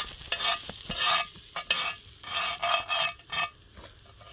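Butter sizzling in a hot frying pan, in uneven surges with short quieter gaps.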